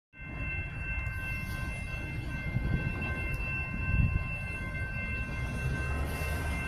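Metra commuter train approaching from a distance: a low rumble with a steady high-pitched whine of several tones held over it, swelling briefly about four seconds in.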